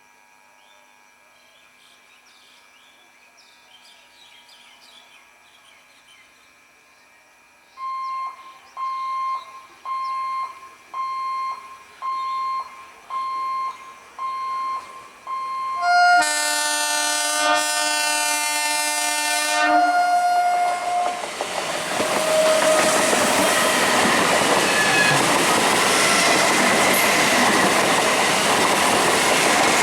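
An EMU local train sounds its horn, one loud multi-toned blast of about four seconds, then runs past with loud, steady wheel-on-rail rolling noise and clickety-clack. Before the horn, a high electronic beep repeats about once a second, eight times.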